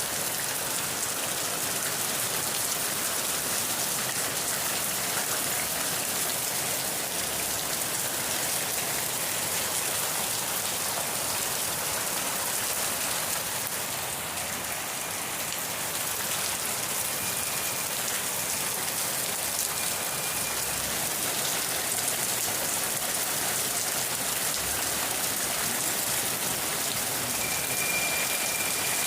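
Steady rain falling, an even continuous hiss of drops without letting up.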